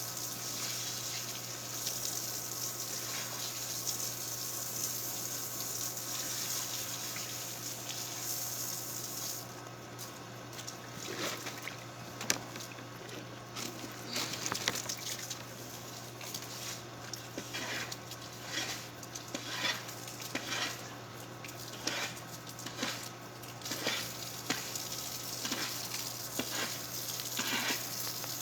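Kitchen sounds: a steady rush of water or sizzling for the first third, then irregular clinks and clatters of dishes, pots and utensils being handled, over a steady low hum.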